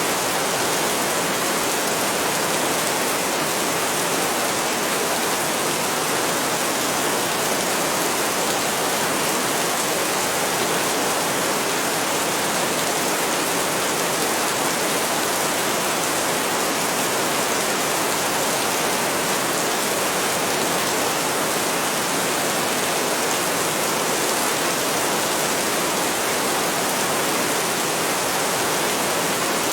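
Heavy rain falling steadily: a dense, even hiss of rain with no thunder.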